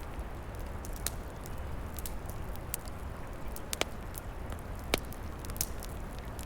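Wood fire crackling, with scattered sharp snaps and two louder pops about four and five seconds in, over a steady low rumble.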